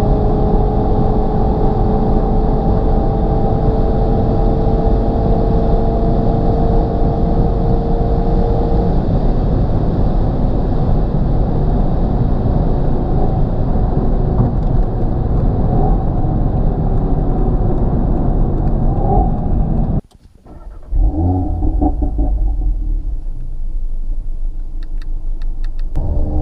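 Audi TT RS's 2.5-litre turbocharged five-cylinder engine and sport exhaust, valves open, heard from inside the cabin at speed with road rumble, its pitch climbing slowly over the first several seconds then holding steady. About twenty seconds in, the sound cuts out abruptly for a moment. It then resumes quieter with the engine note changing pitch, and grows louder again near the end.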